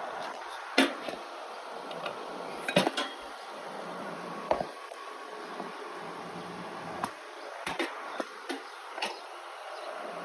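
Scattered sharp knocks and clinks of hard objects being handled, about seven in all, the loudest about a second and three seconds in, over a steady background hum.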